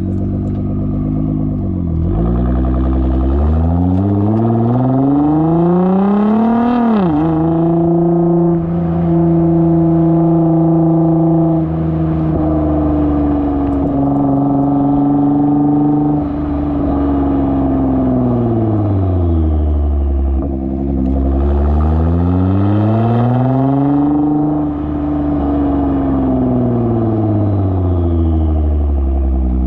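Nissan GT-R R35's twin-turbo 3.8-litre V6 running through a Speed by Design aftermarket exhaust under steady load. Revs climb for a few seconds, then drop sharply about seven seconds in, as at a gear change. They hold steady, then fall and rise again twice.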